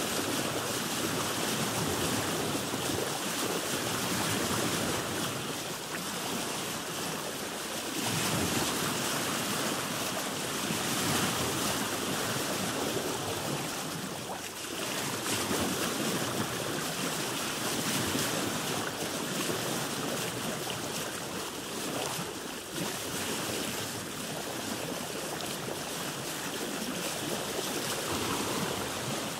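Sea waves washing around a boat: a continuous rush of water that swells and eases every few seconds.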